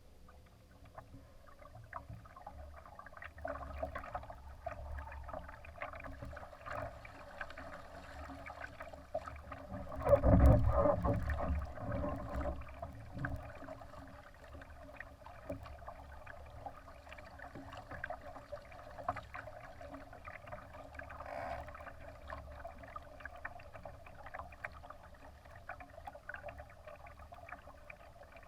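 Water rushing and splashing along the hull of a Laser sailing dinghy under way. About ten seconds in, a louder rush, heavy in the low end, lasts two or three seconds.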